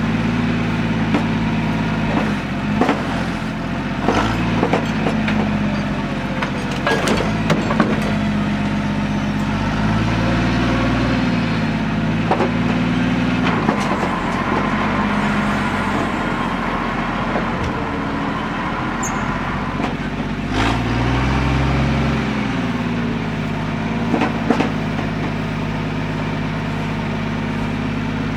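Lull telehandler engine running steadily, revving up briefly twice, once about ten seconds in and again about twenty-one seconds in, with scattered metal knocks and clanks.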